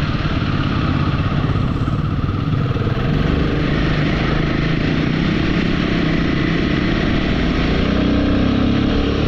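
Royal Enfield motorcycle engine running steadily while riding, with a continuous low rumble and a broad rushing noise over it.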